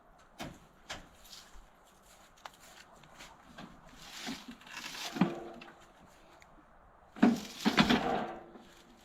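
Scattered knocks and clatter of objects being handled and moved, with a noisy rustle about halfway through. The loudest part is a burst of clatter and scraping with a brief squeak, about seven seconds in.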